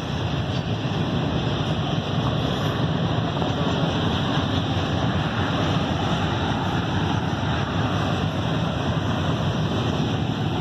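Steady rushing rumble of a moving vehicle, even throughout with no distinct knocks or horn.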